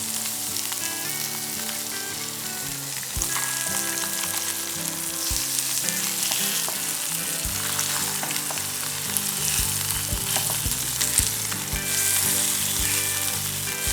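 Chicken wings sizzling steadily in hot oil on a grill pan, with soft background music underneath.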